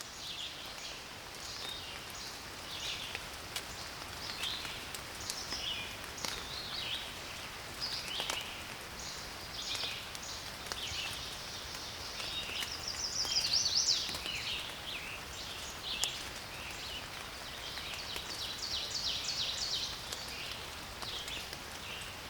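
Songbirds singing and chirping over a faint steady hiss, with many short varied notes, the loudest burst about two-thirds of the way in, and a run of rapid repeated notes near the end.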